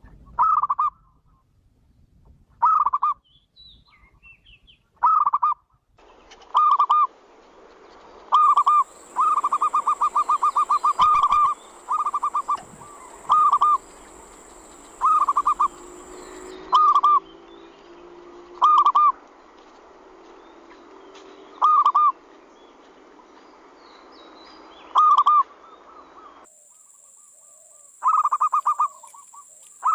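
Zebra dove (perkutut) calling: about a dozen short phrases of quick, rippling coos, with one longer rolling run about a third of the way in. A faint hiss and a thin, steady high whine sit behind the calls through much of the middle.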